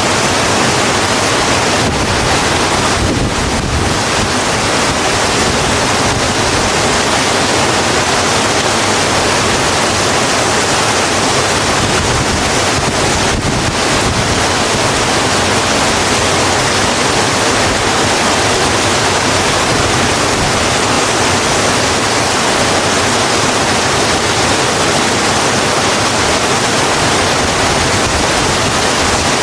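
Steady heavy rain, a dense even hiss.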